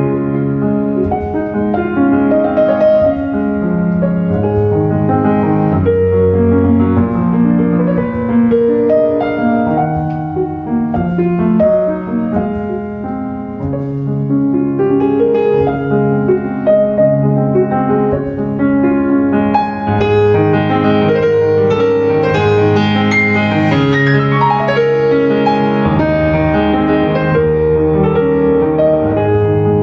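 Background piano music: slow, sustained notes layered in chords at a steady level.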